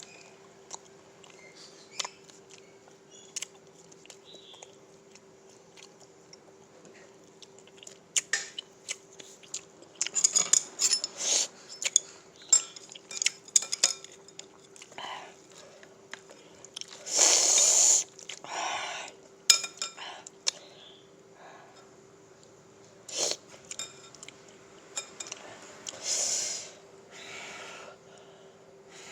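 Kitchen handling sounds: scattered clicks and taps of utensils against dishes. A louder rushing noise lasts about a second and a half roughly two-thirds of the way through, all over a faint steady hum.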